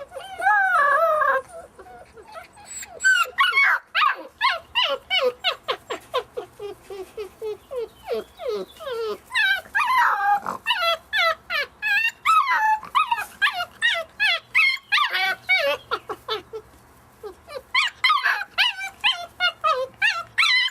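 A litter of month-old puppies whimpering and yipping: a fast run of short, high cries sliding down in pitch, many overlapping, with a brief lull about three-quarters of the way through.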